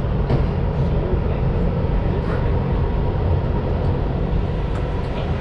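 Los Angeles Metro rail car running, heard from inside: a steady loud rumble with a thin, steady whine above it.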